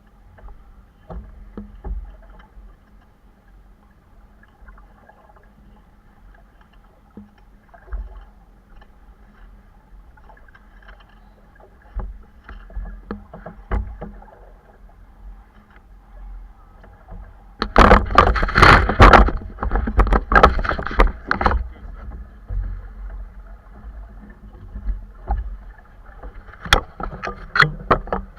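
Sounds aboard a small sailing boat: a low steady background with scattered knocks, broken about two-thirds of the way through by a loud burst of noise lasting a few seconds.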